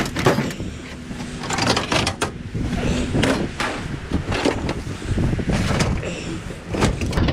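Repeated clanks, knocks and scraping of sheet-metal appliances being manhandled and shifted, with a hand truck in use.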